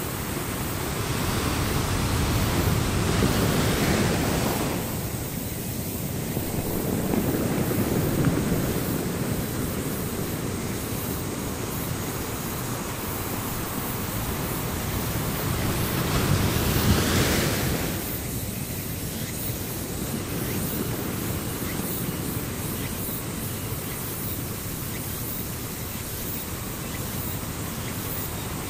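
Ocean surf: a steady rushing wash of waves that swells louder three times, early, near the first third and about two-thirds of the way through.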